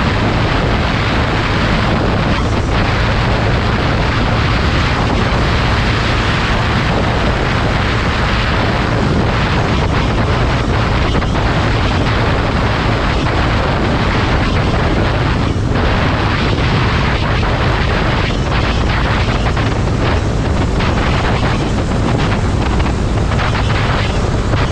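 Heavy wind rushing over the microphone, as on a moving motorcycle, with a steady low engine drone underneath.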